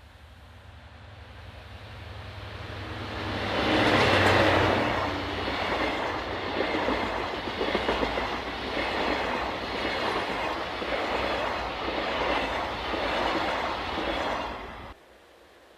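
A diesel-hauled freight train approaches and passes close by. The locomotives' engine rumble swells to a peak about four seconds in. It is followed by a steady rhythmic clatter of wagon wheels over the rail joints, which cuts off suddenly near the end.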